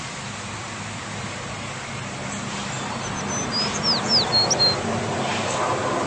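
A small bird gives a quick run of short, high chirps, some sliding downward, about halfway through. Underneath is a steady background of distant traffic noise.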